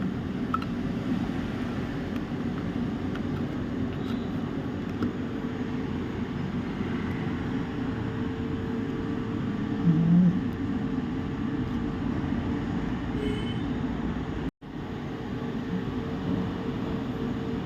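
Steady low mechanical rumble with a faint steady hum, the running sound of a fan or air-conditioning unit in the workshop; it cuts out for a split second about fourteen and a half seconds in.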